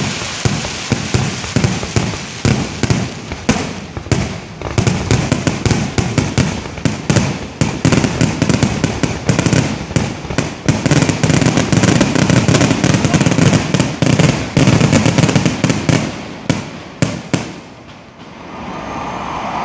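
Grand finale of a fireworks display heard from directly beneath it: shells bursting overhead in a rapid, dense barrage of bangs. The barrage thins out and fades about eighteen seconds in.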